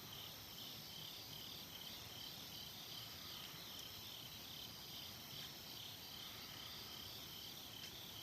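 Crickets chirping in a steady, evenly repeating pulse, with a few faint clicks.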